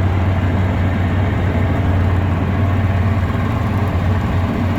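Twin two-stroke outboard jet motors on a jon boat running steadily under way, a constant low engine hum with no change in speed.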